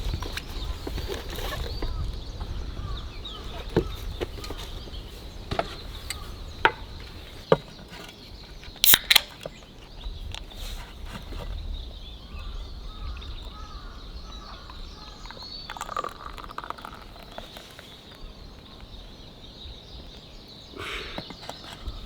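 Scattered sharp knocks and clicks, several single ones and a loud cluster about nine seconds in, over steady low outdoor background noise.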